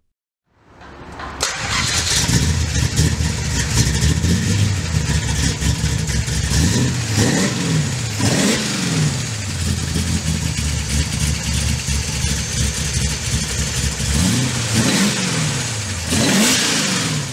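1962 Dodge Dart's 413 Max Wedge V8, breathing through twin four-barrel carburettors, idling and revved up and down several times.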